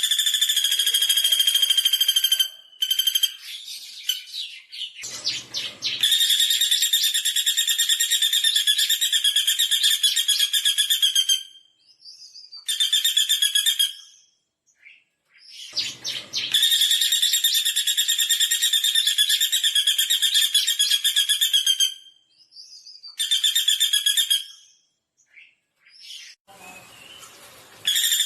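Pelatuk bawang woodpecker giving long, rapid, high-pitched rattling trills of several seconds each, repeated with short pauses between them. A few brief noisy rushes fall between some of the trills.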